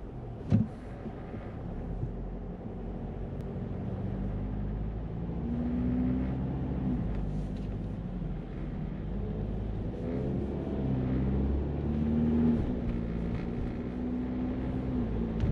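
Car engine heard from inside the cabin, pulling away and gaining speed, its engine note holding and then shifting several times as the level slowly rises. One short sharp knock about half a second in.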